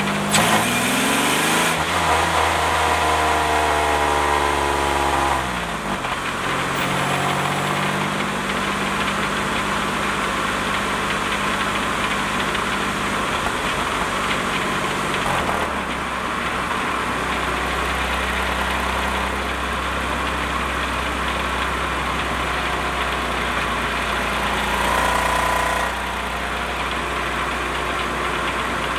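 Series II 3800 V6 in a mid-engine car running under load, heard from beneath at the transaxle. The engine speed climbs sharply at the start, eases down and drops about five seconds in, then holds fairly steady. Through it runs a rattle from the Getrag 282 transaxle that is out of time with the engine and whose cause the owner has not found.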